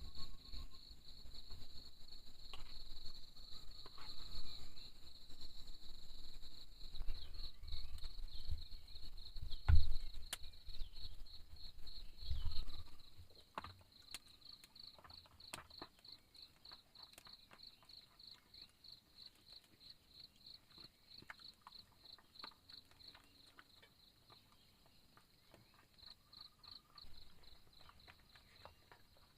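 An insect chirps in a fast, even, high-pitched pulse throughout. Knocks and bumps come in the first half, the loudest about ten seconds in.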